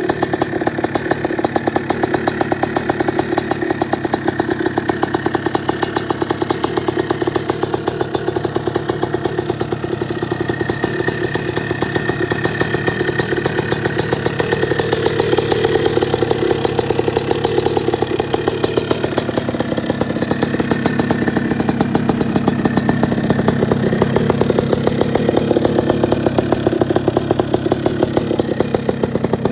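1984 Yamaha IT200's two-stroke single-cylinder engine idling steadily, its tone dropping lower about two-thirds of the way through.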